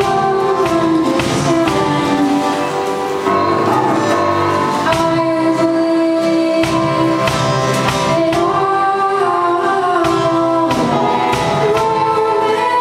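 A woman singing a song over instrumental accompaniment, her voice moving from held note to held note.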